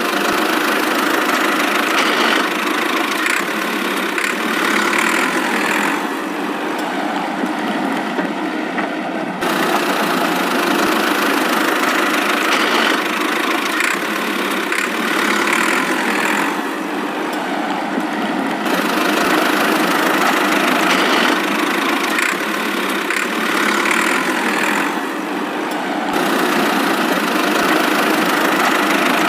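An engine running steadily with a knocking, idling character, sounding like a tractor. Its upper tone drops away and comes back a few times.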